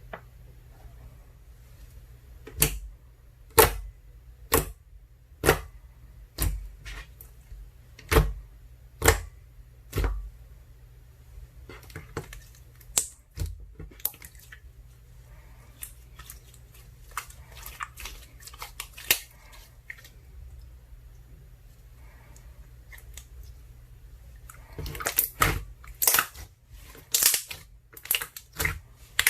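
Water jelly slime (ice slime mixed with soothing gel) being pressed and stretched by hand, giving sharp wet clicks and pops. They come about once a second at first, then sparser, and turn into quick crackling clusters near the end.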